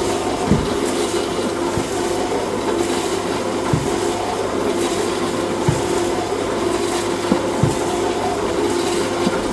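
Plastic-processing factory machinery running steadily with a constant hum, and a few dull low thumps at uneven intervals.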